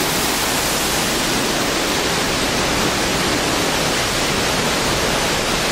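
Automatic truck wash spraying water: a steady hiss of spray.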